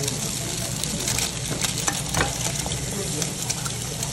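Eggs frying on a hot cast-iron plate and pork belly on a tabletop grill, a steady sizzle with scattered crackling pops of spattering fat.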